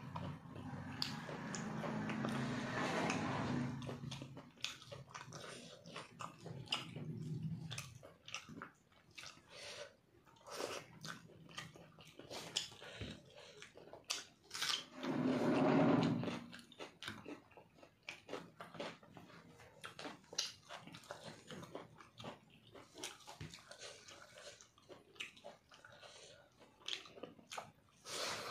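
Close-miked chewing and mouth sounds of a person eating rice and chicken curry by hand, with many short wet clicks and smacks. Louder, lower mouth sounds come in the first few seconds and again about halfway through.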